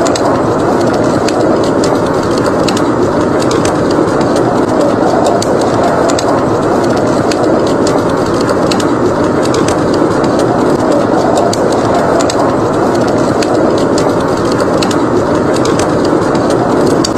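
Steady roar of blizzard wind, with a wood fire crackling in a fireplace: many small, sharp pops scattered over the rush.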